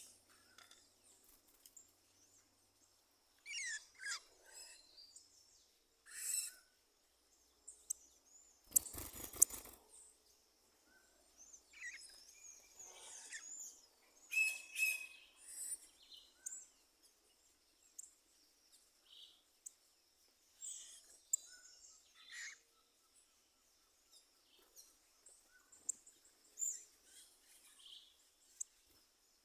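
Birds calling and singing in scattered short chirps and phrases over a faint steady high-pitched hum, with a loud burst of rapid clicks about nine seconds in.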